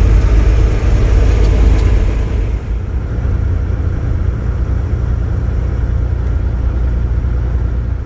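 Semi-truck engine and road noise heard from inside the cab: a steady low rumble that drops in level about two and a half seconds in.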